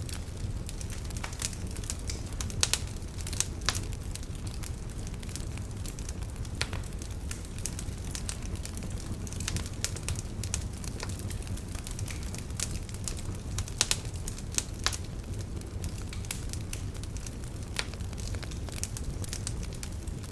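Log fire in a fireplace crackling: irregular sharp pops and snaps over a steady low rumble of the burning, with a few louder pops about three seconds in and again near fourteen seconds.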